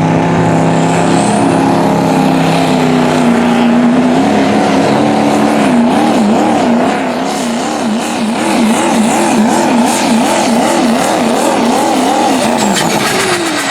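Diesel four-wheel-drive pulling truck at full throttle pulling the sled. The engine note holds steady, then wavers up and down about twice a second, and near the end the pitch falls away with a high descending whistle as the throttle comes off.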